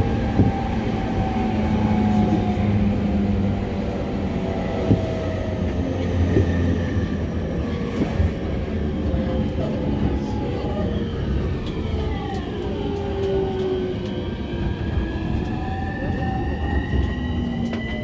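Electric commuter train heard from inside the carriage while running: a steady rumble of wheels on rail with a few sharp clicks, under a motor whine in several tones that glides in pitch, falling through the middle and rising near the end.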